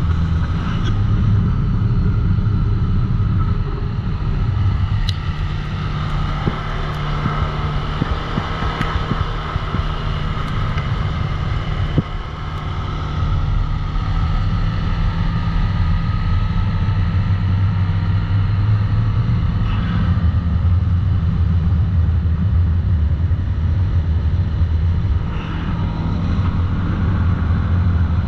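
CFMoto ATV engine running at a fairly steady pace while riding, with wind on the microphone and a few short knocks.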